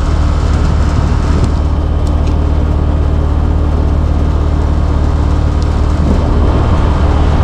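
Steady low mechanical hum of running HVAC equipment, with a few faint light clicks.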